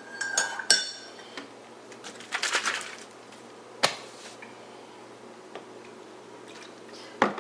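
Kitchenware being handled around a coffee cup: a few scattered clinks and knocks, one ringing clink near the start, a short clatter about two and a half seconds in, and sharp knocks near the middle and just before the end.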